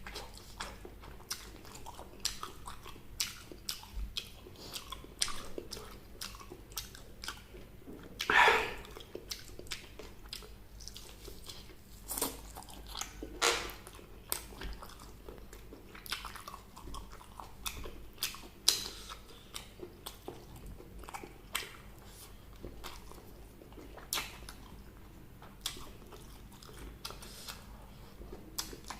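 Close-miked eating sounds from a meal of fried chicken and vegetables: bites, crunching and chewing in an irregular run of short clicks and crunches. A few bites stand out louder, the loudest about eight seconds in.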